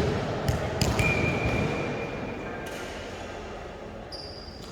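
Two sharp smacks of a volleyball being hit about half a second in, then a steady high squeak lasting about a second and a half, over the echoing background of an indoor sports hall that slowly quietens.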